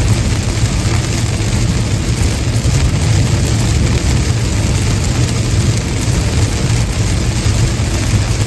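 Steady road noise of a car driving on a wet interstate in the rain: a low, even rumble with the hiss of tyres on wet pavement and rain.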